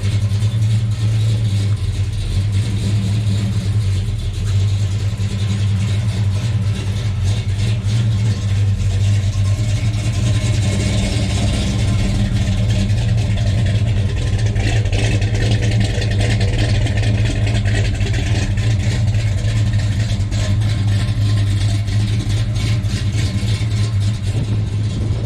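A car engine running steadily at a fast idle, its pitch and loudness holding even with no revving.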